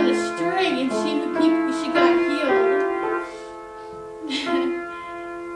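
Soft keyboard music playing long, held chords, with a voice-like line gliding over them.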